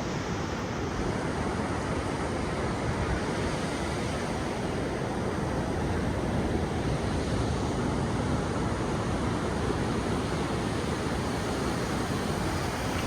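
Ocean surf on the beach, a steady rushing noise with wind.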